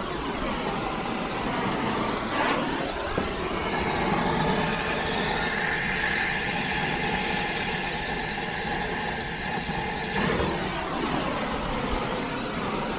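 Brazing torch flame burning steadily on a reversing-valve joint, a continuous hiss with a whistling tone that briefly shifts in pitch a few times as the torch is moved.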